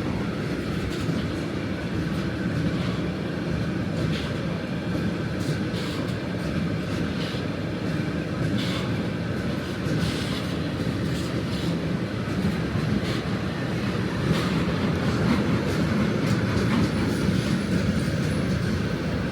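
Freight train of car-transporter wagons rolling past: a steady low rumble of wheels on rail, with clicks as the wheels cross rail joints. It grows a little louder about two-thirds of the way through.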